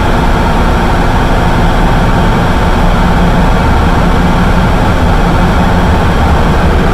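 Harsh noise wall: a loud, dense, unchanging wash of distorted noise, heaviest in the bass, with faint steady tones running through it.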